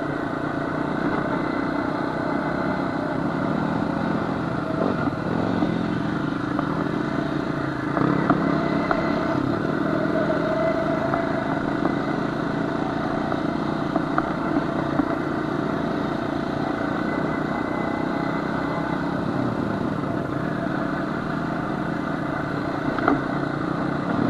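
Honda FourTrax quad's engine running steadily under way on a rough trail, with a few sharp knocks and clatter from the machine going over bumps.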